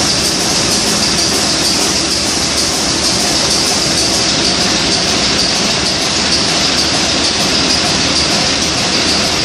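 Old Niigata 750 kW marine diesel main engine running at a steady speed: a loud, unbroken mechanical din with a strong high hiss.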